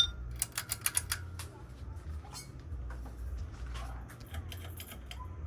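A ceiling fan's pull-chain switch clicks sharply as the fan is switched from low to medium, followed by a quick run of ticks over the next second as the chain swings. The fan motor then runs with a steady low hum and scattered light ticking; the owner thinks the fan may need a new capacitor.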